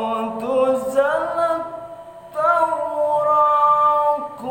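A voice chanting Quran recitation in a slow melodic style, holding long notes that bend and rise in pitch, with a short pause for breath about two seconds in before the next phrase.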